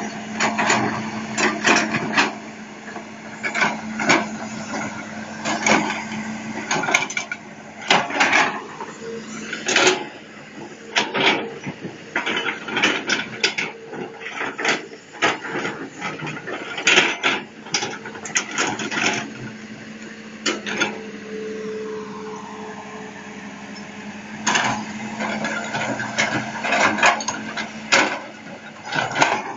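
Irregular knocking and clattering, some clusters of quick knocks, over a steady low hum.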